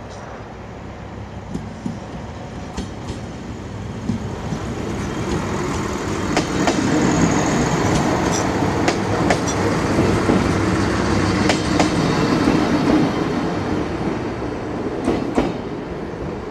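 A passenger train consist being shunted, rolling past with a rumble that builds over the first few seconds, holds, then eases near the end. Wheels click over rail joints every so often through the pass.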